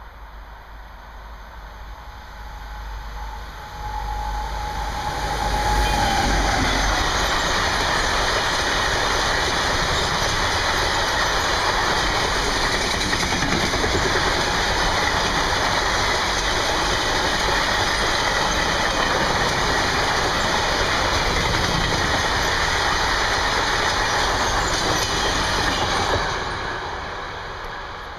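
Freight train of boxcars behind a Class 189 electric locomotive passing: it comes up with a brief steady tone as the locomotive arrives, then a loud, steady rush of wagons rolling by for about twenty seconds, fading away near the end.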